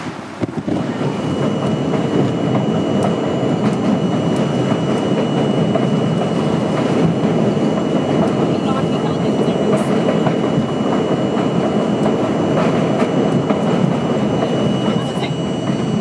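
Subway train running along the track: a loud, steady rumble with clickety-clack. A thin, steady high whine joins about a second in.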